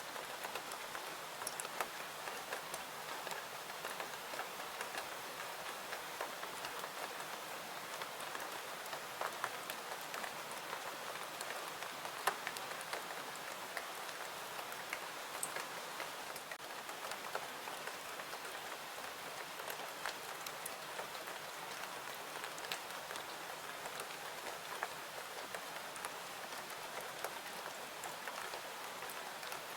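Steady rain falling, an even hiss dotted with scattered sharp drop ticks, one louder tick about twelve seconds in.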